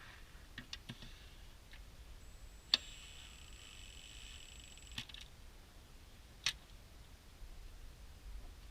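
Cordless drill running slowly on its first speed setting, giving a faint steady high whine for about two and a half seconds in the middle, with sharp clicks before, at its start and after it.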